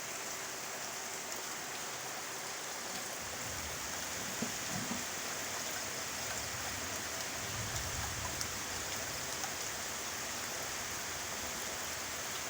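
Steady heavy rain from a tropical storm, falling evenly with a few faint drop ticks and two soft low rumbles.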